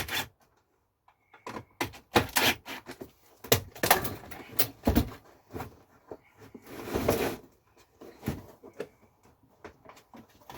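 Plastic parts of a Lay-Z-Spa pump unit being handled while a part is taken off and a seal fitted: scattered clicks and knocks, with a longer scraping sound about seven seconds in.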